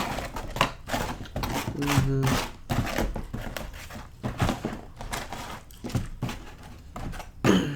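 Close-miked eating and handling of leftover pizza: crinkling, tearing and soft knocks in quick, irregular succession, with a short hummed voice sound about two seconds in.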